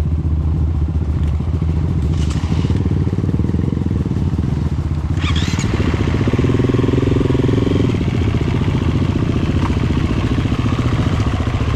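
Honda CRF250F dirt bike's single-cylinder engine running steadily on the trail, its note shifting for a couple of seconds around the middle.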